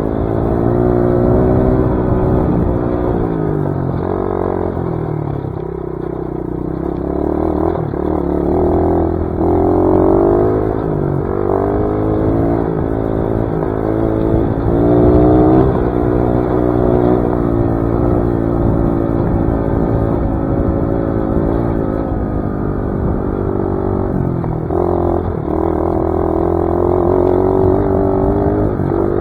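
Dirt bike engine running under way on a trail ride, its pitch rising and falling again and again as it revs up and eases off.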